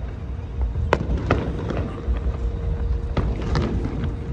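Sound-and-light show soundtrack over outdoor loudspeakers: a steady low rumble with a few sharp cracks.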